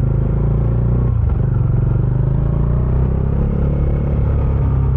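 Bajaj Dominar 400's single-cylinder engine running through its stock exhaust while the motorcycle is ridden at low speed, with a brief change in the engine note about a second in.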